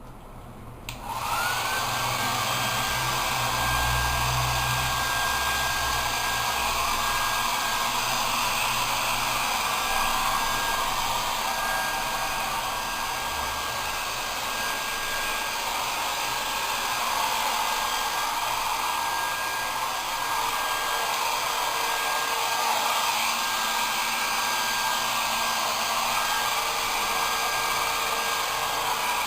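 Electric blow dryer for drying a dog, switched on about a second in, then running steadily: a rush of blown air with one constant whine above it.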